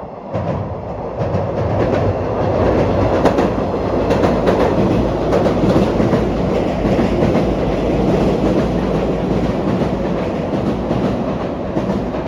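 Electric train of the JR 115 series running on the rails, a steady heavy rumble with wheels clacking irregularly over rail joints. It swells up quickly at the start.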